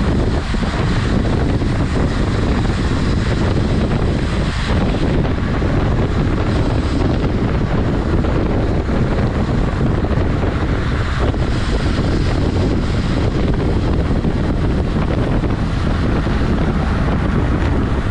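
Wind buffeting the camera's microphone while riding a road bicycle at speed: a loud, steady rushing rumble.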